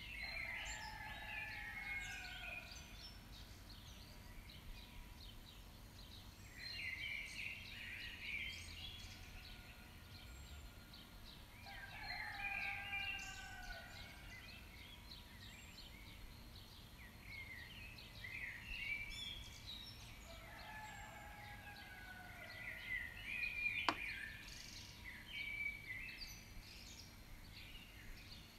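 Birds chirping and calling in recurring bursts every five or six seconds, some calls sliding down in pitch. A single sharp click about 24 seconds in.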